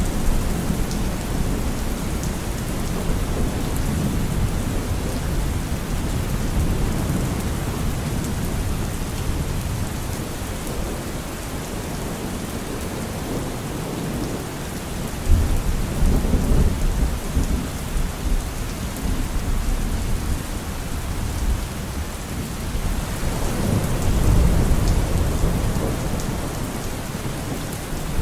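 Steady heavy rain with thunder rumbling twice, once about halfway through and again near the end.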